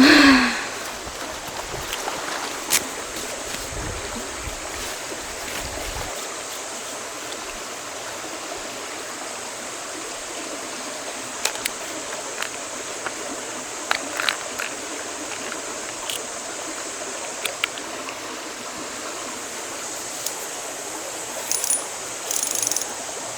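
Steady rushing of a flowing river, with scattered small clicks and taps over it.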